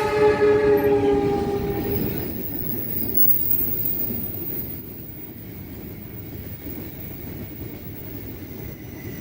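Train horn sounding its last couple of seconds and fading out about two seconds in, followed by the steady low rumble of a train running along the rails.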